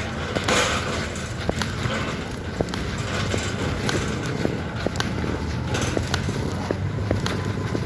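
CFMoto 300SR motorcycle on the move: a steady low engine and road rumble with many small clicks and ticks scattered through it.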